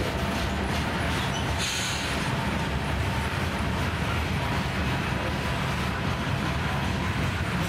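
Freight train of steel open-top hopper cars rolling past: a steady rumble of steel wheels on rail, with a brief high-pitched sound about a second and a half in.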